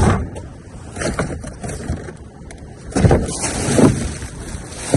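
Rummaging through trash: bags and discarded items rustling and shifting in irregular bursts, loudest about three to four seconds in.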